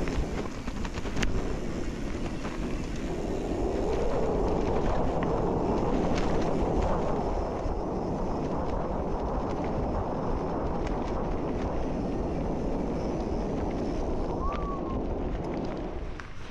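Steady rushing noise, with wind rumbling on the microphone, growing a little fuller a few seconds in. A short squeak rises and falls near the end.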